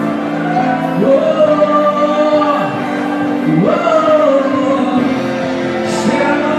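Live gospel worship music: steady held chords under a voice that slides up into long held notes, once about a second in and again a little past halfway.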